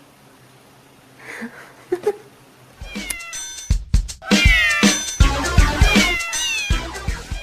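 Cat meows, loud and repeated, with music, starting about three seconds in after a quiet opening; the meows fall in pitch and overlap.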